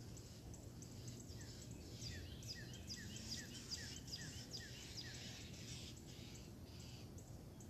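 A songbird singing a faint run of quick, high, down-slurred notes, about two or three a second, that builds and then fades out near the end, over a steady low background rumble.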